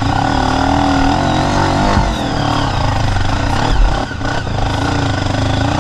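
Off-road dirt bike engine running under throttle, its pitch rising and falling repeatedly as the rider works the revs.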